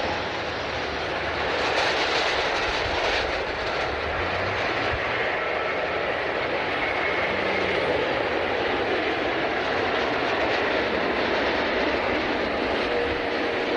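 Airliner engine noise at an airport, a steady sound that barely changes in level.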